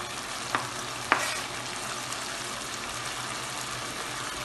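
Browned chicken sizzling in a pot as chopped onion, carrot and tomato are scraped off a cutting board into it with a knife. Two sharp knife clicks come about half a second and about a second in, over the steady sizzle.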